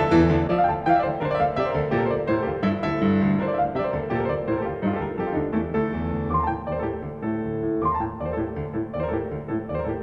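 Background piano music, a flowing run of notes that grows slightly quieter.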